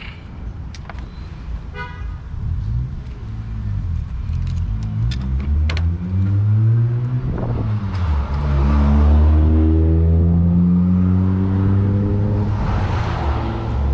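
2005 Acura TL's 3.2-litre V6 accelerating hard. The engine pitch climbs for several seconds, drops at a gear change about seven and a half seconds in, then holds loud and steady with rising wind and road noise.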